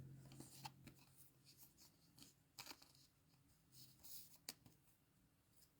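Near silence with faint rustling and a few soft clicks as trading cards are handled.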